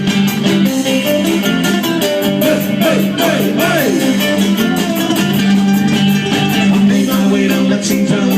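Live band music between verses: an instrumental break led by guitar over a steady beat.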